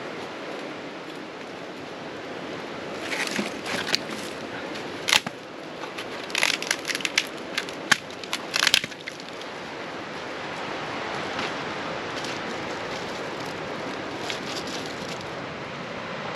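Steady rushing of water, with a run of sharp crackles and clicks between about three and nine seconds in, like gear or dry material being handled.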